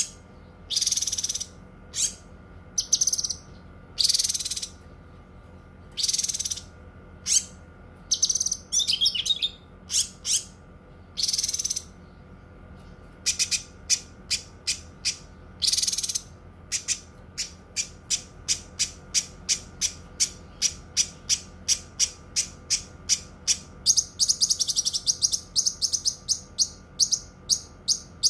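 Cucak kinoi singing: loud, separate high calls at first, then from about halfway a long fast run of short sharp notes, about three or four a second, with a denser trill under them near the end.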